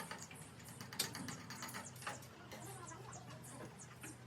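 Scattered light clicks and taps, the sharpest about a second in and again about two seconds in, over a faint steady low hum.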